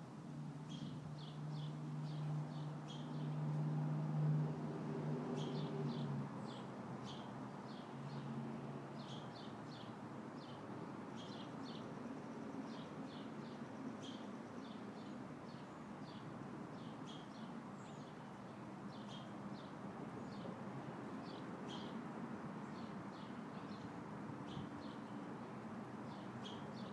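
Small birds chirping in quick runs of short high notes, over a steady wash of wind noise. A low hum runs through the first six seconds, loudest about four seconds in, then fades.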